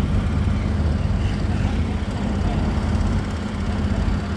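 A large engine running steadily with a low, even rumble.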